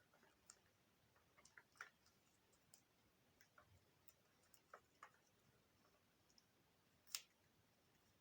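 Near silence broken by faint, irregular clicks and light taps from small parts being handled, one sharper click about seven seconds in.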